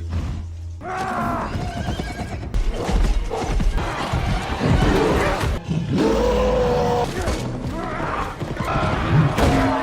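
Film action-scene soundtrack of a mounted raid: dramatic music mixed with horses neighing and shouting voices.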